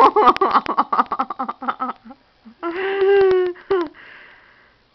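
A woman laughing: a fast run of giggles that trails off over the first two seconds, then a drawn-out voiced sound, like a laughing 'aww', about three seconds in, with a short one after it.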